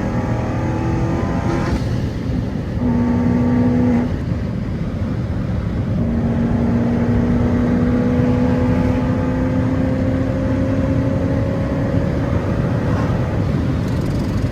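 Car engines under power, their pitch holding and then climbing slowly as a vehicle accelerates, with the longest pull running for several seconds in the middle.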